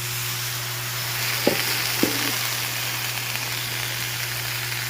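Brussels sprouts and bacon sizzling on a Blackstone flat-top griddle, the sizzle swelling near the start, with two sharp knocks about a second and a half and two seconds in.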